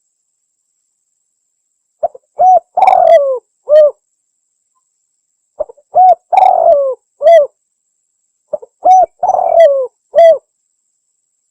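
Spotted dove (tekukur) cooing: three matching phrases a few seconds apart, each a few short coos around one longer coo that falls in pitch. This is a lure call.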